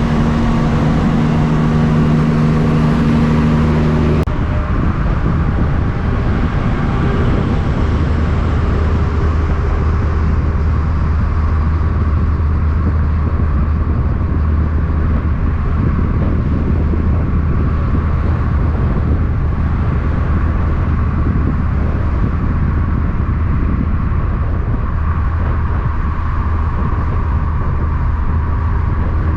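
Heavy truck engine running with a steady low drone. A higher droning tone over it cuts off suddenly about four seconds in.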